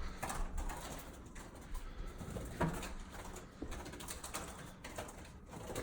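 A trapped European starling moving about: scattered scratching and fluttering sounds in short, irregular bursts, with a sharper knock about two and a half seconds in.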